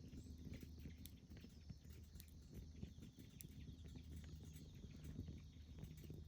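Faint, irregular crackling and popping of a wood campfire over a low steady hum.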